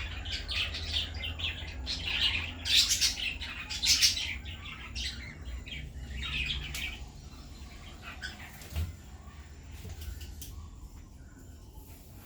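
Birds chirping busily, many short calls crowding over one another, loudest in the first few seconds, then thinning to scattered chirps after about seven seconds. A steady low rumble runs underneath.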